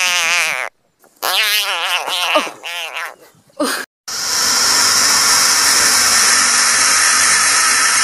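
African bullfrogs screaming with their mouths wide open. A long wavering, warbling scream cuts off under a second in. After a short gap come several more wavering screams. Past the halfway point, after a brief break, there is one steady hissing scream.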